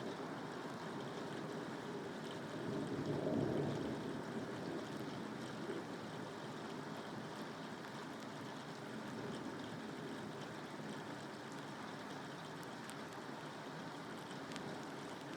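Steady rain falling, an even hiss with scattered drop ticks, swelling briefly louder and lower about three seconds in.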